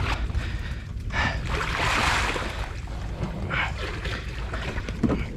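Water sloshing and splashing, with swishing noise as a person wades and pushes a jon boat through water and sawgrass, over a steady low rumble. A louder swish comes about a second in and lasts about a second and a half.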